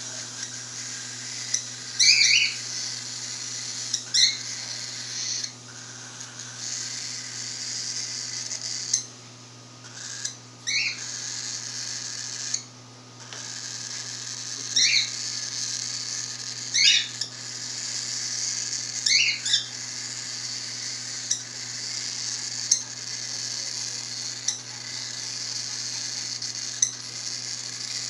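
Five-week-old cockatiel chick begging for food: a continuous raspy hissing call, broken every couple of seconds by short sharp squawks, which stops briefly twice near the middle.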